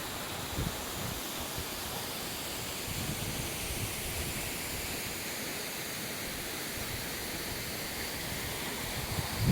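Steady, even rush of Yoro Falls, a waterfall's falling water.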